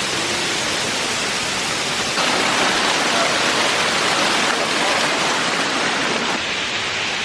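Steady rush of a large, wide waterfall pouring down a cliffside, running in high flow after heavy rain. It grows a little louder about two seconds in.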